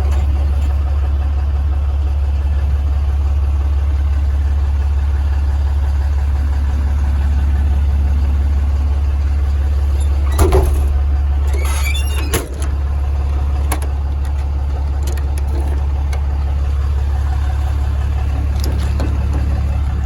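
An engine idling steadily with a constant low hum. A few short knocks come through about halfway in.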